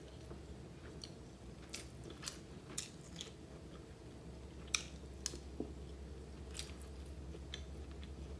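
A person chewing a mouthful of chicken biryani, with soft, irregular mouth clicks; the loudest comes a little before five seconds in. A faint steady low hum runs underneath.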